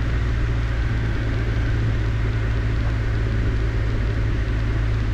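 Cessna 152's four-cylinder Lycoming engine and propeller droning steadily in flight, heard from inside the cockpit as a constant low hum.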